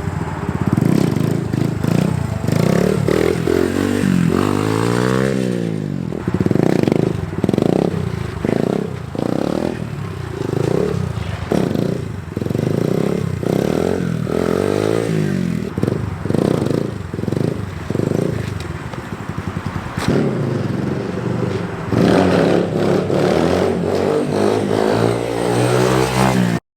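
SSR 150 dirt bike's single-cylinder four-stroke engine revving up and falling back again and again as it is ridden through second-gear wheelie attempts, its pitch climbing and dropping many times. The sound cuts off suddenly near the end.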